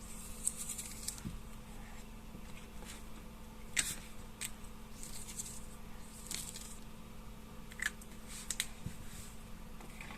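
Paper and sticky tape being handled: short rustling scrapes and a few small sharp clicks, over a faint steady hum.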